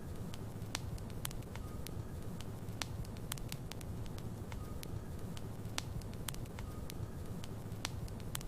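Wood logs burning in a fireplace: a steady low rumble of flame with sharp, irregular crackles and pops a few times a second, and a faint short whistle now and then.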